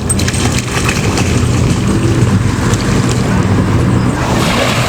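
A car engine running steadily, with wind rushing over the microphone.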